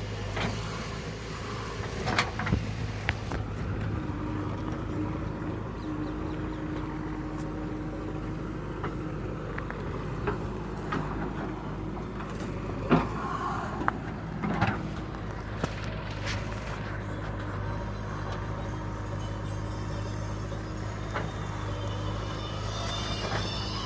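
JCB 3DX backhoe loader's diesel engine running steadily, with a few sharp knocks and clanks about two seconds in and again around the middle.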